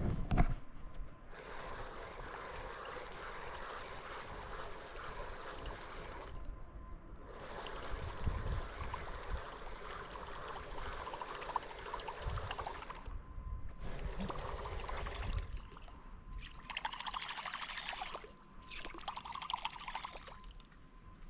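Water trickling and gurgling off a canoe paddle, coming in stretches of a few seconds with short pauses between, and one or two loud knocks right at the start.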